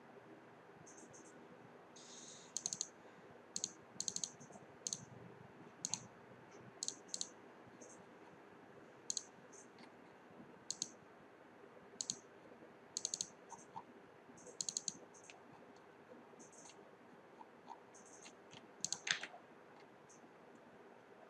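Sharp, high-pitched clicks at irregular intervals, about one or two a second, some coming in quick pairs or triplets, over a faint steady hum.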